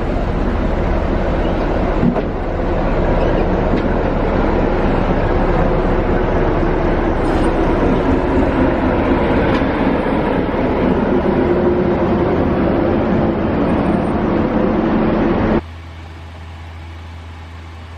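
Class 73 electro-diesel locomotive working a train on its diesel engine: a loud, steady engine and rail noise. It cuts off suddenly near the end, leaving a much quieter low hum.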